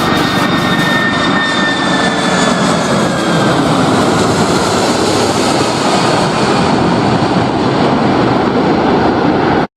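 Loud engine noise from a fixed-wing aircraft, its tone slowly falling in pitch as it goes by, cutting off abruptly near the end.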